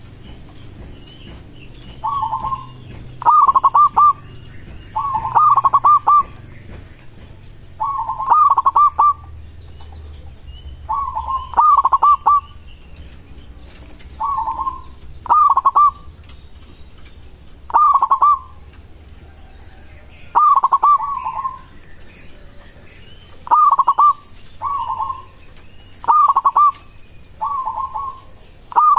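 Zebra dove (perkutut) singing: short, loud, bubbling coo phrases repeated every one to three seconds, some coming in quick pairs. Faint chirps of small birds sound in the background.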